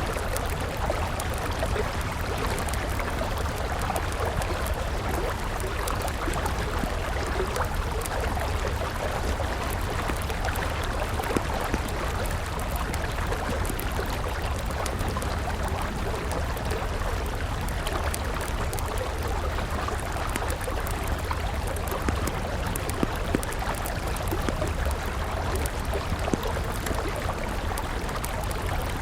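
River water flowing steadily, with scattered crackles and pops from a burning wood campfire; a few louder pops stand out about 11 seconds in and around 23 seconds in.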